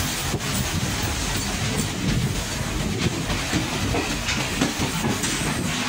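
Passenger train running along at speed, heard from on board: a steady rumble and rattle of the carriage with scattered clicks of the wheels over the track.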